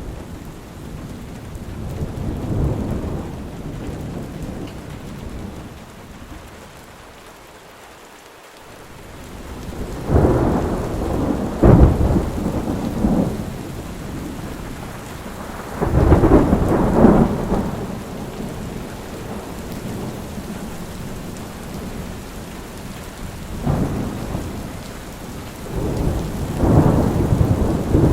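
Steady heavy rain with repeated rolls of thunder rumbling in and out every few seconds; the loudest peals come about ten, twelve and seventeen seconds in, and the rain eases off briefly before them.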